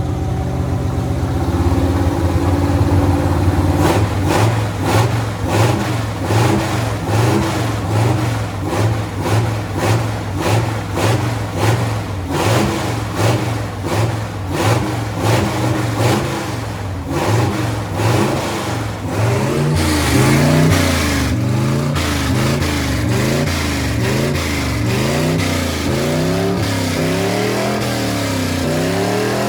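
Engine of a 1981 Dodge D150 pickup running and revving up and down over and over, its pitch rising and falling about once a second.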